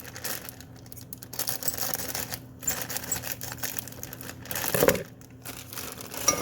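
Kitchen handling sounds: plastic packaging crinkling and rustling, with scattered light clicks and a louder knock about two-thirds of the way through, over a faint steady hum.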